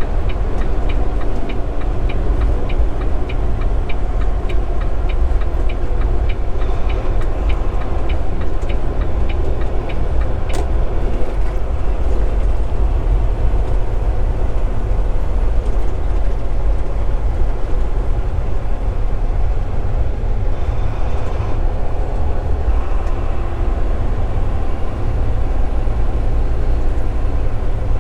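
Steady engine and road drone inside a moving semi-truck's cab. For roughly the first ten seconds a turn signal ticks about twice a second, signalling the move over toward the exit.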